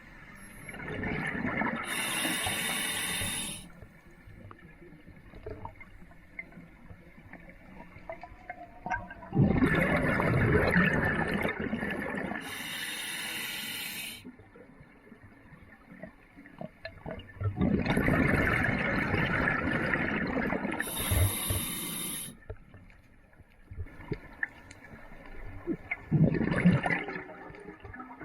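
A scuba diver breathing through a regulator underwater: slow breaths about every eight to nine seconds, each a rush of exhaled bubbles and a hissing inhale through the regulator, with quieter pauses between them.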